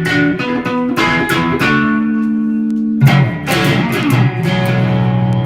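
Guitar playing a blues riff: a run of picked notes, a held low note, then a heavy strummed chord about three seconds in.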